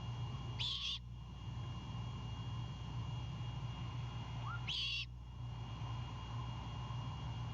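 Great horned owlet giving two short, harsh, high screeching calls about four seconds apart, over a steady low hum.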